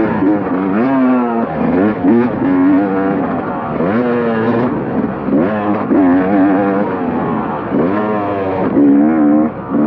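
KTM motocross bike's engine, revving up and easing off again and again, a rise in pitch every second or two, as the throttle is worked over rough ground.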